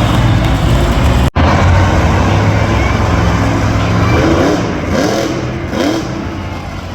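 Monster truck engine running loud in an arena, with a brief dropout just over a second in and three short rising sounds between about four and six seconds, over a crowd's voices.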